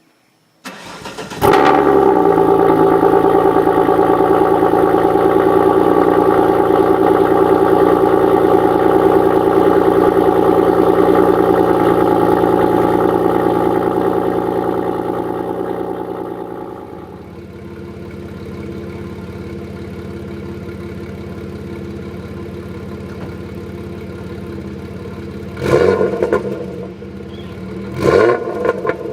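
Alfa Romeo 156 V6 with Unicorse replica exhaust pipes being started: it cranks briefly, catches with a flare of revs and settles into a loud, fast idle. About halfway through the idle drops to a lower, quieter note, and near the end the throttle is blipped twice.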